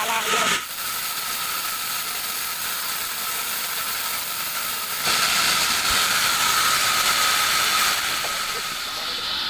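Large sawmill bandsaw running through a teak log: a steady hissing mechanical noise with a constant whine, getting louder and harsher about halfway through.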